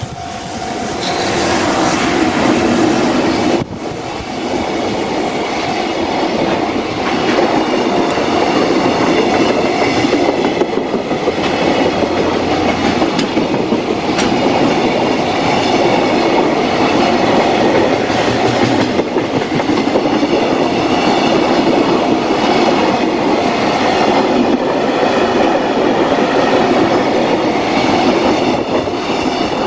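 JR Freight container train passing close by: an electric locomotive arrives, then a long string of container wagons rolls past. The steady rolling noise grows louder over the first couple of seconds, with repeated wheel clatter over the rail joints.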